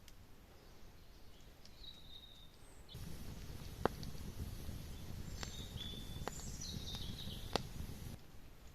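Forest ambience with short bird chirps, some falling in pitch. About three seconds in, a low rumble comes in with a few sharp clicks, and it stops abruptly near the end.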